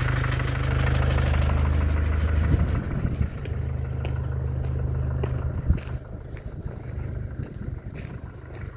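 Mercedes OM651 four-cylinder diesel idling with a knock, like a little hammer tapping, that the owner cannot explain. The engine grows fainter about halfway through.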